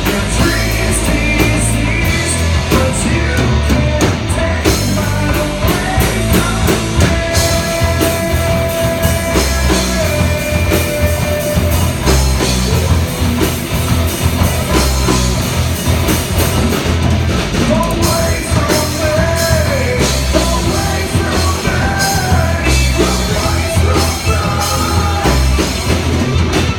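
Rock band playing live: a singer over a drum kit and guitar with a steady beat.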